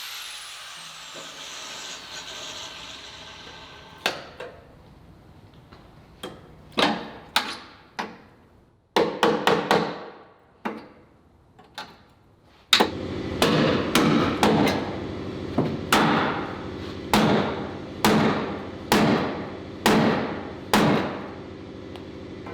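A cut-off tool's whine falls and fades at the start. Then a hammer strikes metal: a few scattered blows, then, from about halfway through, a steady run of ringing blows about one a second, knocking the cut front section of the car's body loose.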